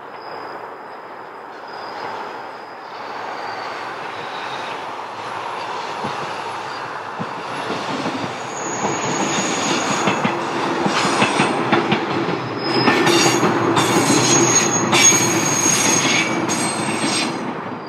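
An Echizen Railway electric railcar passing on the tracks. Its rumble grows steadily louder, with thin high squeals from the wheels on the rails and a run of clacks over the rail joints as it comes closest in the second half. It falls away sharply at the very end.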